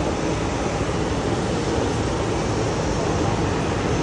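Steady aircraft noise at the airport: an even rumble and hiss that does not change.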